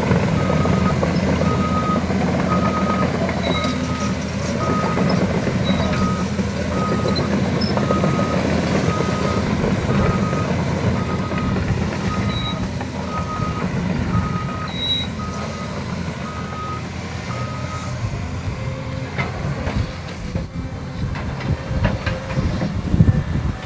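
Dump truck's reversing alarm beeping steadily, a little over once a second, over the rumble of its engine. The beeping stops about three-quarters of the way through while the engine keeps running.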